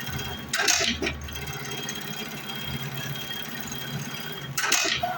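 A machine running with a steady hum, broken by two short, loud hissing bursts: one about half a second in and one near the end.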